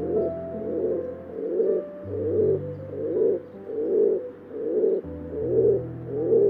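A bird's low call repeated at an even pace, a little over once a second, over held notes of background music.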